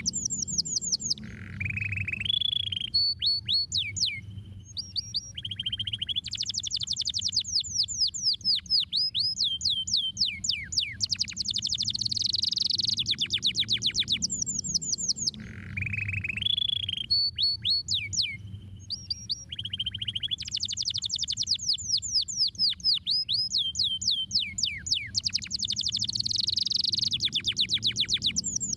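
Domestic canary singing a long song of fast trills and rolls, high and bright. The same song sequence repeats about every fourteen seconds, over a faint low hum.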